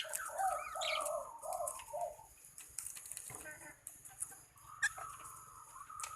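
Birds calling: a run of short, low notes, about four a second, for the first two seconds, then a longer wavering call from about five seconds in. A steady high hiss runs underneath.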